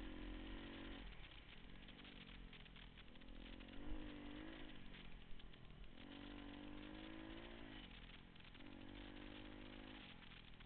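Pit bike engine revving up and falling back several times as it is ridden, its pitch climbing and dropping with the throttle. Two brief knocks stand out, about four and five seconds in.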